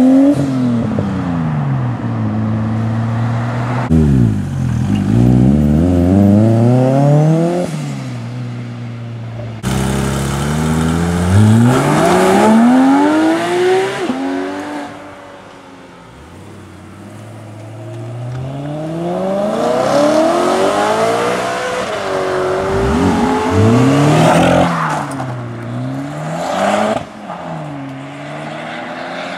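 Several performance cars in turn accelerating hard away, among them a Nissan Skyline R33, a Porsche 911 and a Honda Civic Type R. Each engine's pitch climbs and then drops back at the gear changes, with the sound cutting abruptly from one car to the next.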